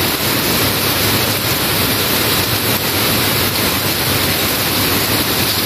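Heavy rain falling hard on wet pavement and standing water: a dense, steady hiss with no letup.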